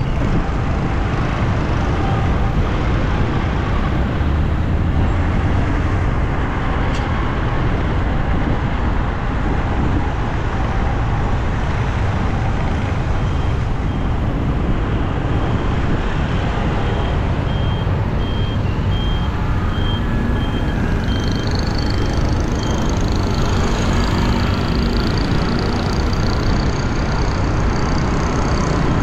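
Steady road traffic noise with a strong low rumble. A faint, high, repeated beeping runs for several seconds in the middle.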